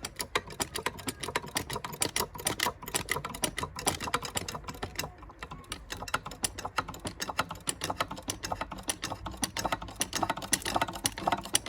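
Rapid, irregular clicking and ticking as a 20-ton bottle jack is pumped to press the hub out of the propeller.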